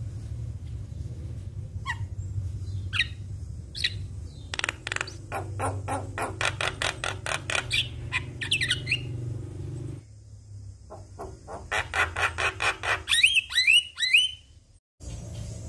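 Javan myna singing: rapid runs of harsh chattering notes mixed with whistled glides, in two long bursts, over a steady low hum. The sound drops out briefly near the end.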